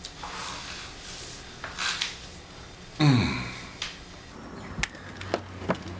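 A man being massaged sighs with breathy exhales, then lets out a loud moan that falls in pitch about three seconds in. A few light clicks and taps follow near the end.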